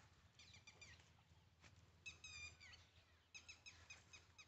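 A bird calling faintly: three short runs of high chirps, each a second or so apart.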